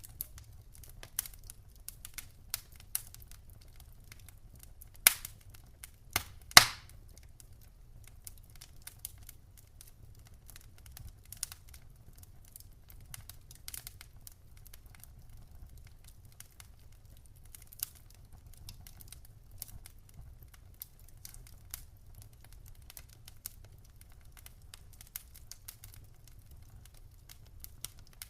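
Wood fire crackling in a fireplace: a steady scatter of small sharp snaps over a low rumble, with two loud pops about five and six and a half seconds in.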